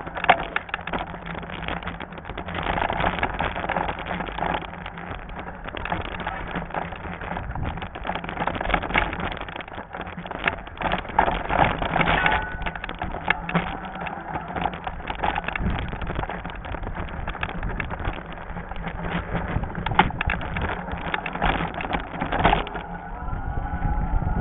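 Lectric XP fat-tire e-bike ridden over a rough trail: continuous rattling and knocking from the bike and tires over bumps, with a steady low hum and wind buffeting the microphone. The rattling eases near the end.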